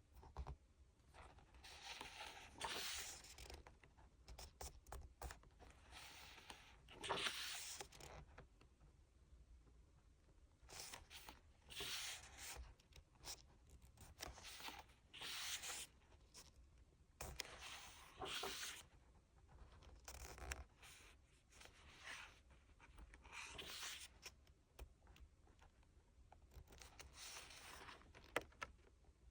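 Paper and plastic handling: a series of short rustling, sliding swishes, one every second or two, as the contents of a K-pop photobook album are handled and turned over.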